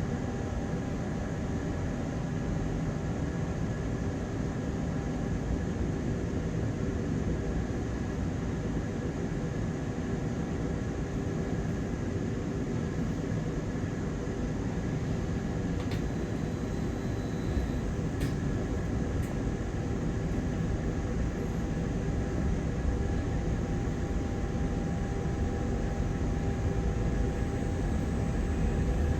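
Inside a moving bus: the engine and cooling fan run steadily with road rumble and a steady whine, growing slightly louder near the end.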